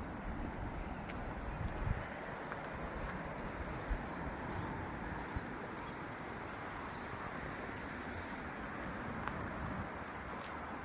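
Small birds chirping and twittering in many short, high calls over a steady background hiss of outdoor ambience.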